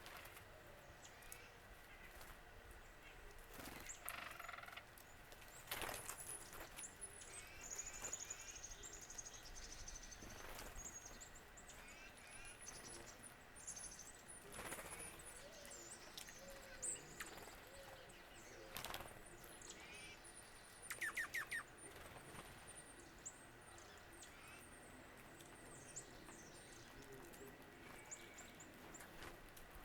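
Wild songbirds calling faintly: many short, high, thin chirps and slurred notes, with a quick run of four sharp notes about two-thirds of the way through.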